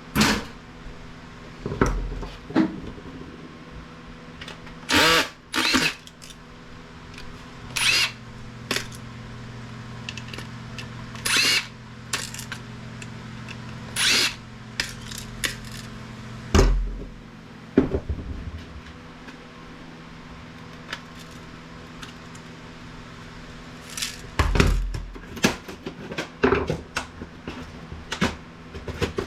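Cordless drill-driver whirring in about a dozen short bursts, backing screws out of a plastic equipment casing, with knocks and clatter of parts between the bursts.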